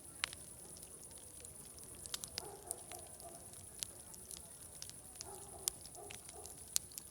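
Wood fire crackling, with sharp pops and snaps scattered irregularly, the loudest a little after the start and near the end. Beneath it runs a faint murmur of distant voices chattering, and a steady high-pitched hiss.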